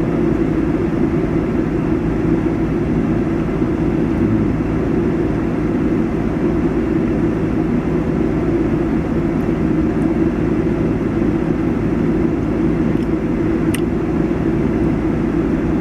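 Steady low rumble of an idling vehicle engine, even and unbroken.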